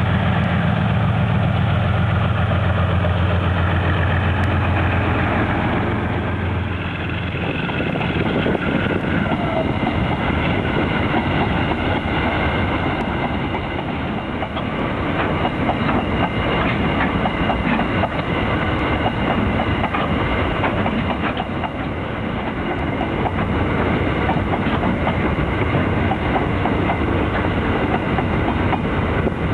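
Diesel-electric locomotives pass with a heavy, low engine drone for the first six seconds or so. After that the long train of ore wagons rolls by with a steady clickety-clack of wheels over the rail joints.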